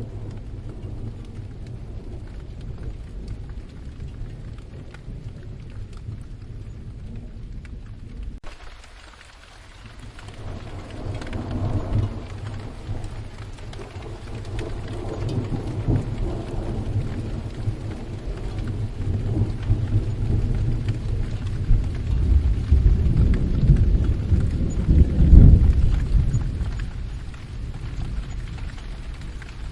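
Steady rain falling, with a long roll of thunder that builds through the second half, is loudest near the end, then dies away.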